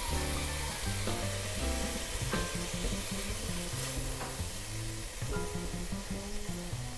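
Cod fillets coated in blackened seasoning searing in hot oil in a pan, sizzling steadily as water cooks out of the fish. Background music plays underneath.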